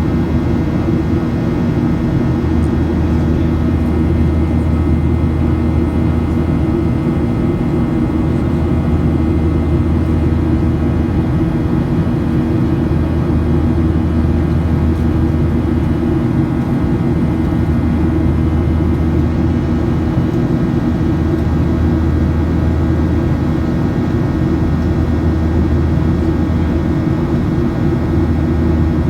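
Airliner's jet engines heard from inside the passenger cabin, a loud, steady low drone with a constant hum of steady tones during the climb after take-off.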